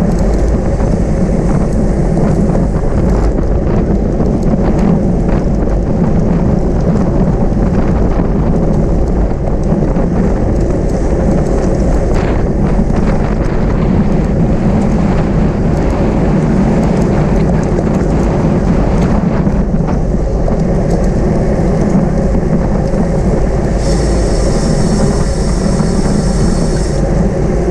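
Steady, loud wind buffeting the microphone of a camera on a racing bicycle at speed, with a low rumble. Near the end, a high sound made of several tones lasts about three seconds.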